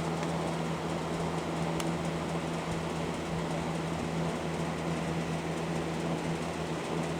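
Electric box fan running, a steady rush of moving air over a constant low motor hum.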